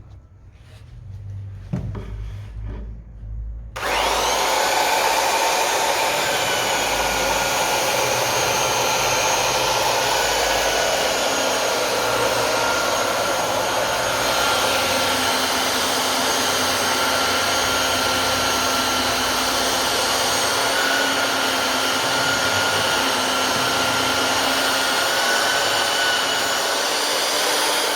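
Bosch GBS 180 belt sander switched on about four seconds in and running steadily while sanding down a wooden stair step. Before it starts there is some low handling rumble.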